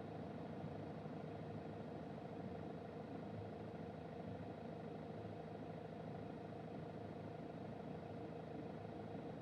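Toyota Auris 1.4 D-4D four-cylinder turbodiesel running steadily, heard from inside the cabin.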